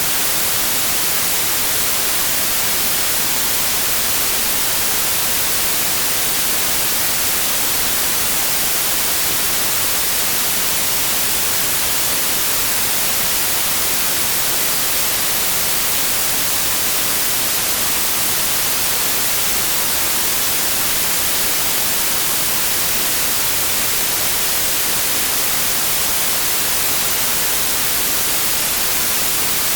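Steady, unchanging white noise: an even, bright hiss with no tones or events.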